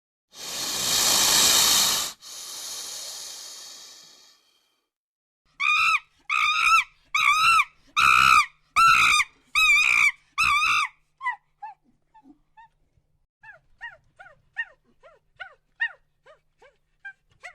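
A hiss, then a run of about nine loud, sharp pitched animal calls, roughly two a second, followed by many fainter, quicker calls falling in pitch.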